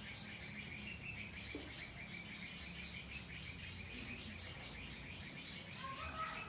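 Faint, steady chirping of birds: a fast, even run of high chirps that goes on without a break, over a low background hum.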